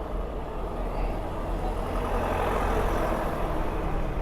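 Road traffic noise: motor vehicle engines running steadily, growing a little louder about two seconds in.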